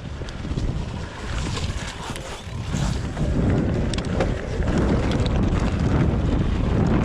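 Wind buffeting the microphone and the rumble of an electric mountain bike's tyres over a rough trail on a fast descent, with scattered clicks and rattles. It is quieter for the first two seconds or so and gets louder from about three seconds in.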